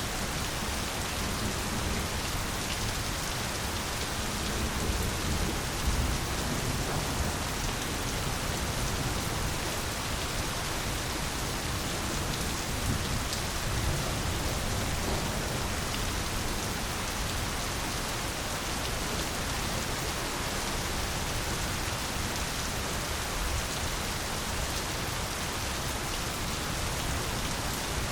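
Steady, even rain falling, with a low rumble of thunder about five seconds in and again near the middle.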